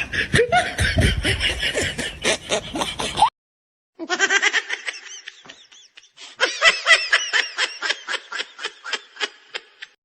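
High-pitched laughter in quick, rapid pulses, coming in three stretches with a sudden break of silence after about three seconds.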